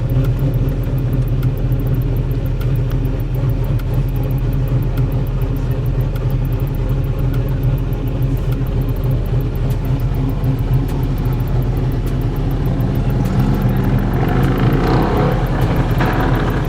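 Car engine and road noise heard from inside a moving car, a steady low drone. About thirteen seconds in, the engine revs up in a rising pitch as the car accelerates.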